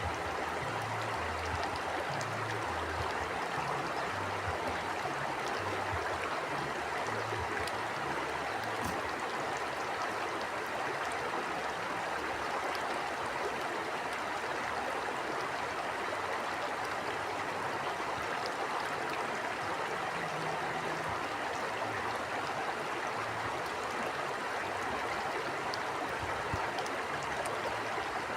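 A river or stream flowing steadily with an even rushing sound, and a low, uneven rumble underneath.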